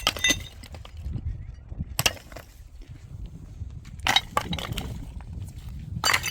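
Sharp clattering knocks of hard materials being struck or dropped, about one every two seconds, over a steady low rumble.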